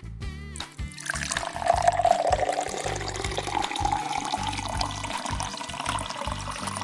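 Liquid pouring into a cup, starting about half a second in: a splashing stream whose pitch rises slowly as the cup fills.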